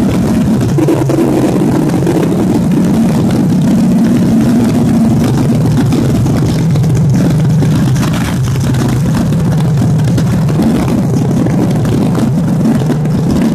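An engine running steadily, its pitch shifting slightly about eight seconds in.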